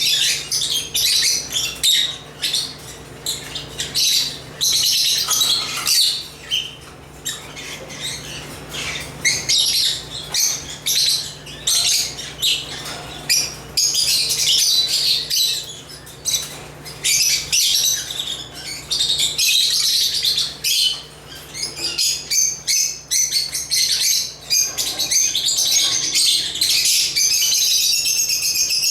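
Lovebirds (Agapornis) chirping and twittering almost without pause, high-pitched, with a couple of quieter lulls, over a faint steady low hum.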